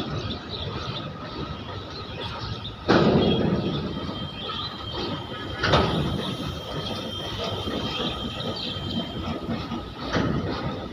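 Loaded covered goods wagons rolling past with a steady rumble, three loud knocks at about 3, 6 and 10 seconds in, and a thin high wheel squeal held steady through the middle.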